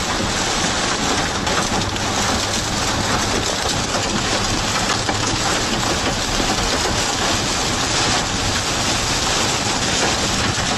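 Heavy rain beating steadily on a moving car, heard from inside the cabin, over the hum of the engine and road.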